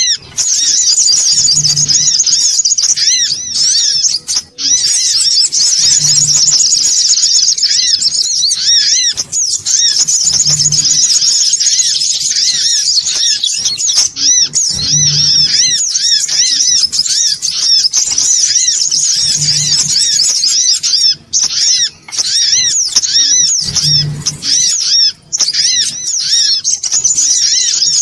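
Recorded lure call of the songon otong sunbird: a dense, continuous stream of rapid high chirps and trills, with a short low thud recurring about every four and a half seconds.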